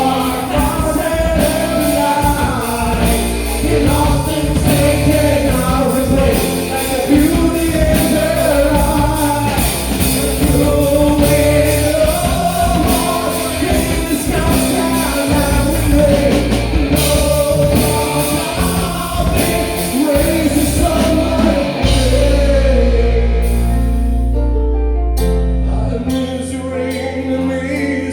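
Rock song with a lead singing voice over a full band: drums, bass and guitar. About 22 seconds in, the drums drop away, leaving a long held bass note under the voice and a thinner backing.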